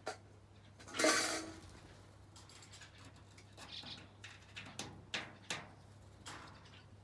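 Small birds pecking at dog-food kibble in a bowl: scattered sharp clinks and rattles, with a louder harsh burst about a second in.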